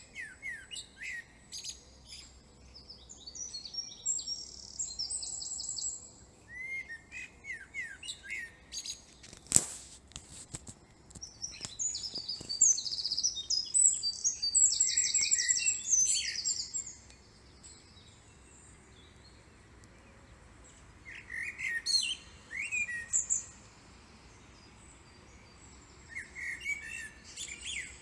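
Small songbirds singing in bursts of short chirps and fast, high trills, with pauses between phrases. A single sharp click about ten seconds in.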